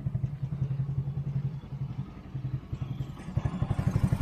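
Polaris Hammerhead R-150 UTV's small single-cylinder engine idling with a steady, fast putter, run just after an oil change to check for leaks. It gets louder from about three seconds in.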